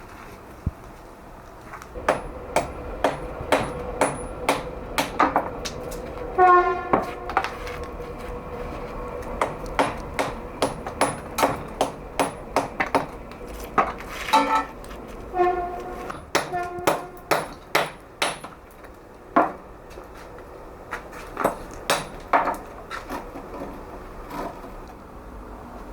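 Hand hammer striking a steel chisel to work the stone, in runs of about two blows a second with short pauses; some blows leave a short metallic ring.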